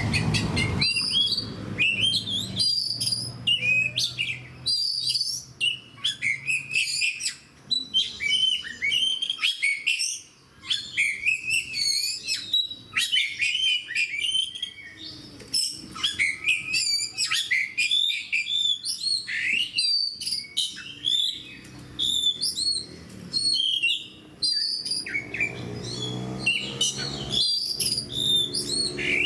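Oriental magpie-robin (kacer) in full song: a fast, unbroken stream of varied whistled and chattering phrases with only brief pauses. A low steady tone comes in faintly near the end.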